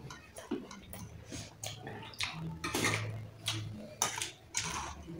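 Close-miked eating sounds as two people chew boiled pork, rice and raw greens, with irregular short smacks and crunches several times a second. A brief low hum comes near the middle.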